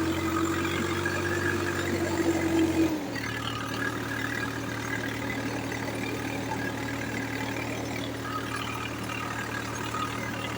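Swaraj 744 XT tractor's three-cylinder diesel engine running; about three seconds in its note drops and it runs quieter, settling into a steady idle.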